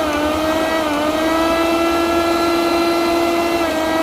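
Miyako Unique trio mixer grinder's 750-watt motor running at high speed, a loud steady whine. Its pitch dips slightly about a second in and climbs back, then drops a little near the end, as the grinder is moved between its three speed steps.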